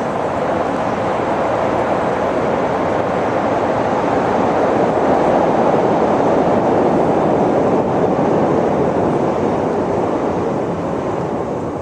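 Steady rushing noise of vehicle and road traffic that swells to a peak about midway and fades near the end.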